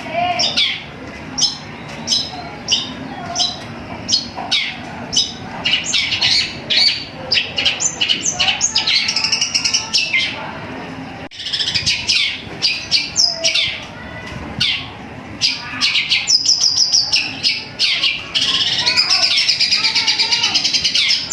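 Long-tailed shrike (cendet) singing a fast run of short, high chirps in imitation of tree sparrows. It breaks into quick rolling trills around the middle and again near the end.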